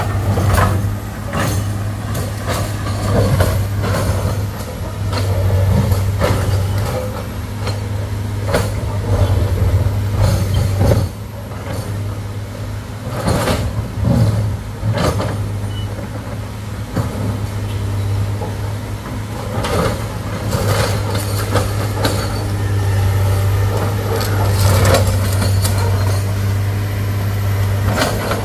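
Excavator's diesel engine running steadily under load, with irregular knocks and scrapes as its bucket works against very hard rock.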